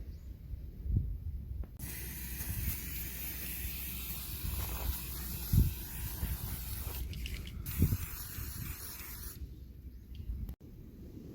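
A steady high hiss that starts abruptly about two seconds in and cuts off suddenly near the end, with a few dull low thumps.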